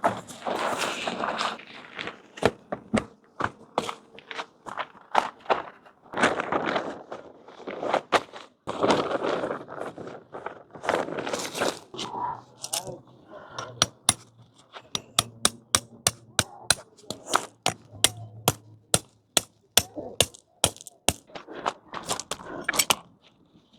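Tent being pitched: bursts of rustling from handling the tent, then a long run of sharp knocks about two a second through the second half.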